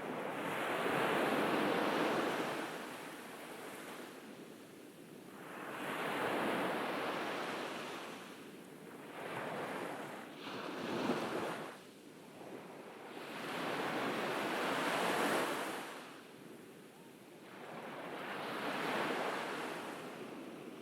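Ocean waves breaking on a beach, the surf swelling and washing back in a surge about every four to five seconds, with a brief sharper splash about eleven seconds in.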